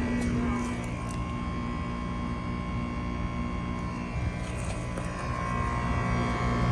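Carrier central air conditioner outdoor units running: the scroll compressor and condenser fan give a steady hum with a few held tones.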